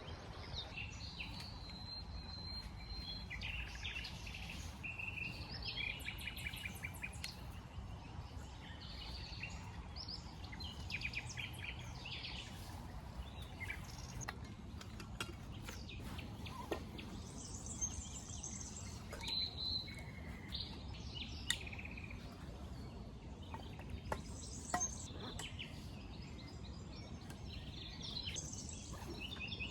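Small birds chirping and trilling on and off over a steady low outdoor rumble, with a few sharp clicks.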